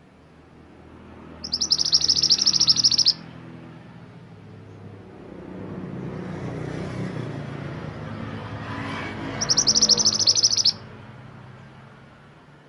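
Mantenan gunung songbird singing two bursts of rapid, high trilled song, each about a second and a half long, about eight seconds apart. A low rumble swells in the background between them.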